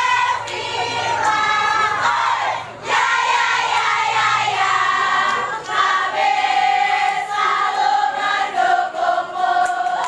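A crowd of students singing a cheer song together in unison, in support of a contestant.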